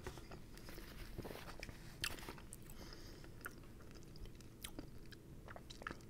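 Faint chewing of a mouthful of crispy fried chicken, with soft crunches and wet mouth clicks scattered through.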